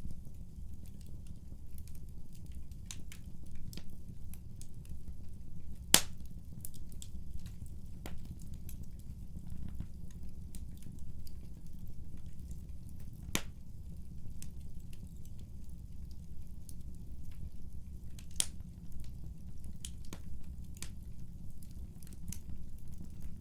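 Wood fire burning in a fireplace: a steady low rumble with scattered sharp crackles and pops. The loudest pop comes about six seconds in.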